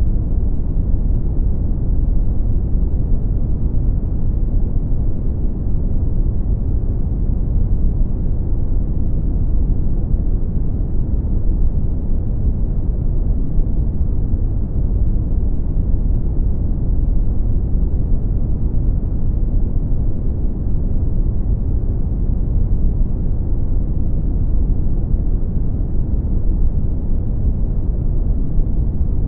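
Brown noise: a steady, deep rumbling hiss, heaviest in the bass and dying away in the treble, unchanging throughout.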